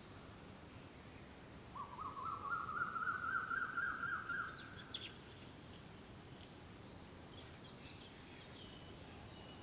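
A bird calling: a fast series of repeated notes that rises slightly in pitch over about three seconds, starting about two seconds in. Faint short chirps from other birds follow.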